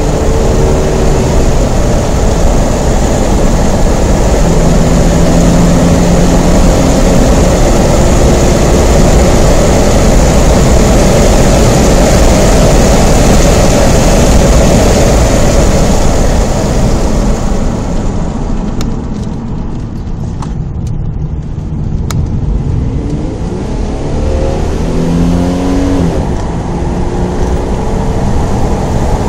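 Holden VT Commodore's 3.8-litre Ecotec V6 heard from inside the cabin, pulling hard with heavy road and wind noise. About two-thirds of the way through, the noise drops away as the car slows for a corner. The engine note then rises again as the car accelerates out.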